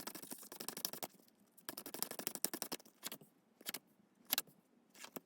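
A deck of tarot cards being shuffled, two runs of rapid card clicks, then several single cards slapped or slid out one at a time.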